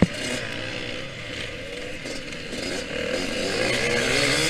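Yamaha YZ125X's 125 cc two-stroke single revving up and down as the bike is ridden, its pitch climbing near the end. A sharp thump right at the start is the loudest moment.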